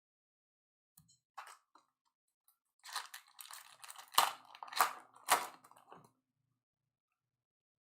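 Trading cards and their packaging being handled, rustling and crinkling, with three sharp snaps in quick succession about halfway through.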